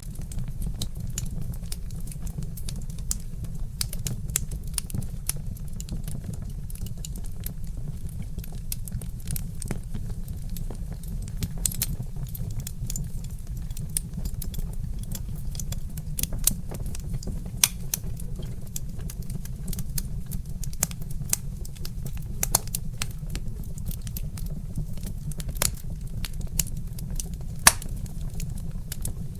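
Log fire crackling: irregular sharp snaps and pops over a steady low rumble, with a few louder pops scattered through.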